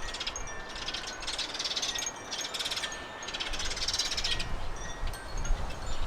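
Garden birds calling: several high, rapid trills about a second long each, with short thin chirps between them. A low wind rumble rises near the end.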